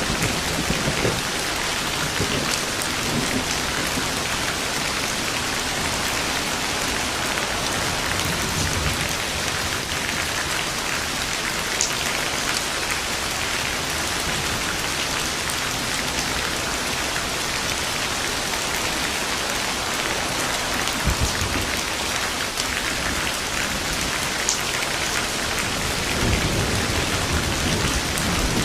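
Steady rain falling on surfaces, with low rolls of distant thunder rumbling under it several times.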